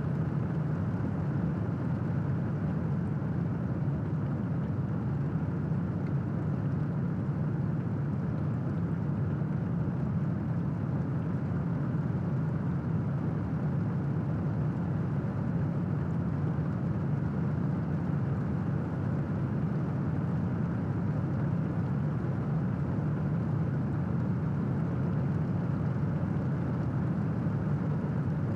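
Steady rain: an even, low rushing noise with no thunderclaps.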